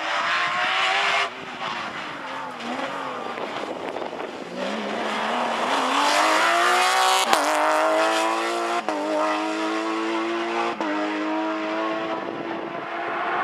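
Porsche rally car's flat-six engine: the revs drop as the car slows, then it accelerates hard with three quick upshifts in the second half, each one briefly cutting the engine note. There is a rush of tyre noise in the first second.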